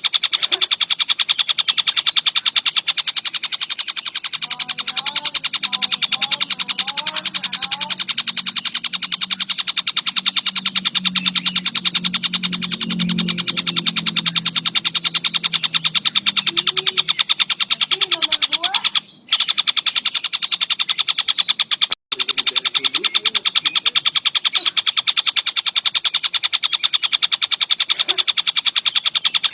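Tengkek buto kingfisher calling in a fast, unbroken chatter of high repeated notes. The sound cuts out briefly twice past the middle.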